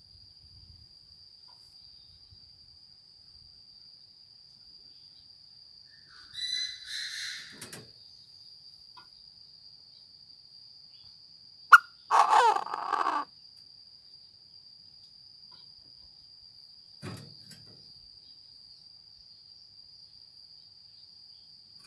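Chinese francolin calling in short harsh bursts, about six seconds in and again, louder, about twelve seconds in, over a steady high insect trill.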